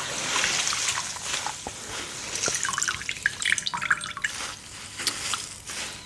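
Sponge being rinsed in water, with water splashing and dripping in many small drops.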